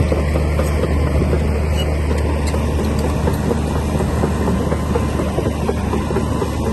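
Komatsu D60P bulldozer's diesel engine running steadily with a strong low hum and a light clatter over it.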